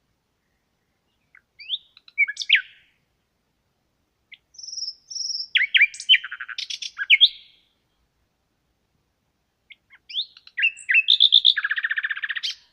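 A songbird singing three separate phrases of varied, high chirping notes with pauses of one to two seconds between them; the last phrase ends in a fast trill.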